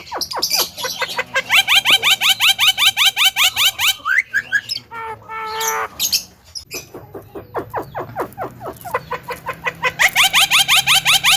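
Javan myna calling loudly: fast runs of short rising notes, about seven a second, with scattered single calls and a drawn-out whistled note between the two runs.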